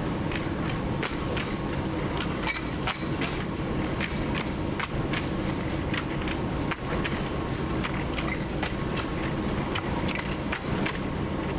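TU7 narrow-gauge diesel locomotive under way: a steady engine drone with many irregular sharp clicks and knocks over it.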